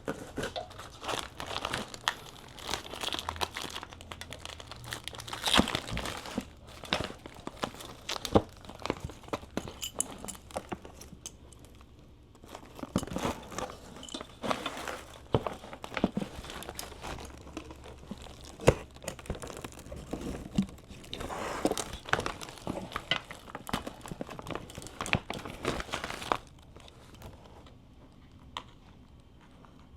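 Packaging being crumpled and torn open as a new motorcycle part is unpacked: irregular crinkling with sharp crackles and snaps that stop about 26 seconds in.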